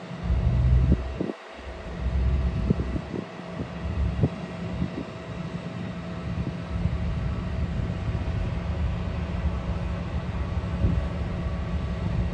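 Jet airliner engines running with a steady hum, with wind buffeting the microphone in gusts during the first few seconds.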